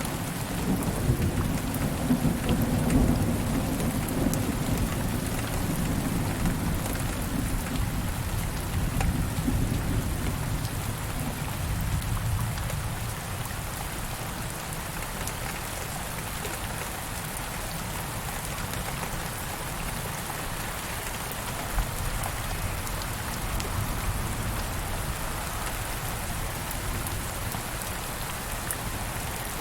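Steady rain falling, with a low roll of thunder rumbling through the first third and fading away.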